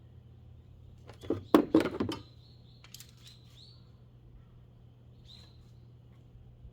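A brief clatter of sharp knocks and clicks about a second in, the loudest sound here, over a steady low hum. Short high chirps, typical of small birds, recur a few times.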